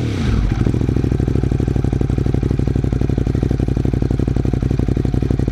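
Ducati Monster 821's 821 cc L-twin engine, breathing through a Termignoni racing exhaust, dropping back from a rev at the very start and then idling steadily with a fast, even pulsing beat.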